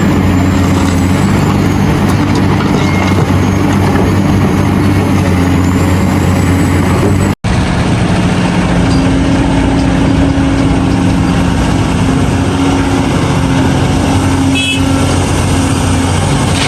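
Heavy diesel engines of a large excavator loading dump trucks, running steadily with a low drone. The sound drops out for an instant about seven seconds in, then the engine drone resumes.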